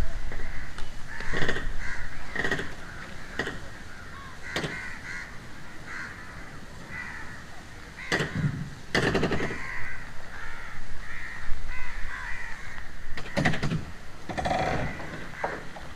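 Crows cawing repeatedly.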